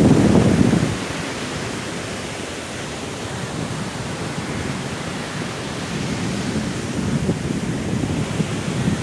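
Sea waves and strong wind: a steady rushing, with a wave surging loudly at the start that falls away after about a second, and building again near the end.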